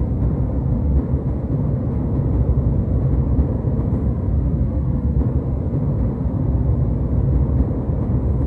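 Jet airliner cabin noise in cruise: a steady, deep rumble of engines and airflow that does not change.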